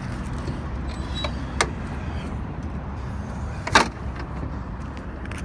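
Steady low rumble with a couple of light clicks, then one sharp metallic clank about four seconds in, as the hood of a Freightliner Cascadia semi truck is tilted open.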